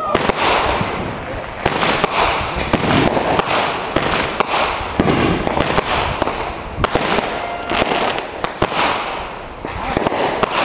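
Consumer fireworks going off: sharp bangs about every second over continuous crackling.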